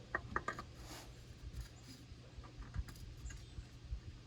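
A drain bolt being fiddled against its threaded hole by hand while it refuses to start threading: a quick cluster of sharp metallic clicks near the start, then faint scattered taps and scrapes, over a steady low hum.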